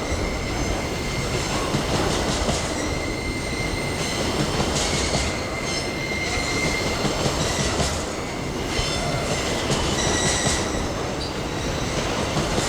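Empty pulp freight wagons rolling past on steel rails: a steady rumble and clatter of the wheels, with high, wavering wheel squeals coming and going.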